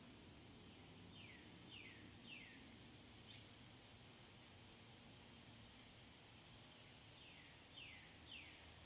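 Faint birdsong: a songbird sings two phrases of three downslurred whistled notes, the first about a second in and the second near the end, over many short, very high chirps.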